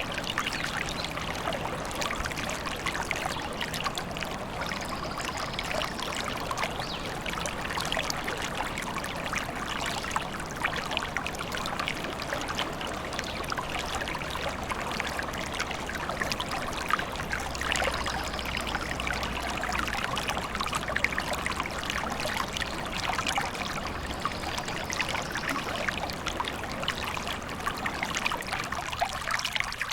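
Forest stream running and trickling, a steady splashing, babbling flow.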